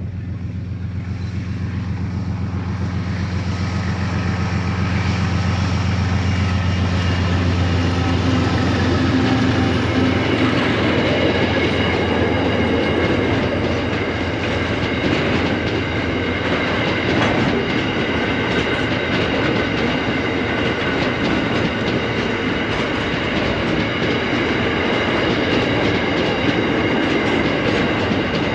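Aurizon diesel-electric locomotive running as it approaches and passes, its engine hum strongest in the first nine seconds or so. From about ten seconds in, a long string of empty ballast hopper wagons rolls by on narrow-gauge track: a loud steady rumble with clickety-clack from the wheels and high ringing tones from wheel on rail.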